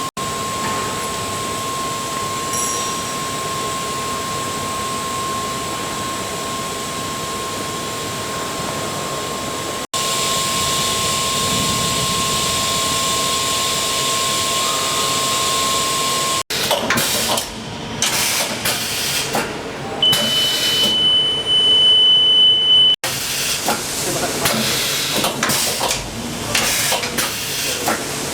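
CNC milling machine running: a steady hiss with a constant high tone, then after abrupt cuts irregular clattering and a brief high steady whine.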